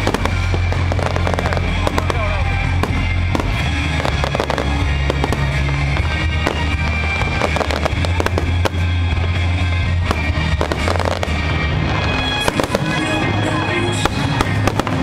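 Aerial fireworks display: many shells bursting in quick, overlapping bangs and crackles, over music with sustained low notes.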